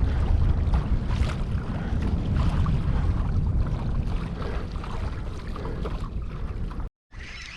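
Wind buffeting the microphone out on open water from a kayak: a steady low rumble with faint scattered knocks. It cuts out abruptly about a second before the end, then comes back much quieter.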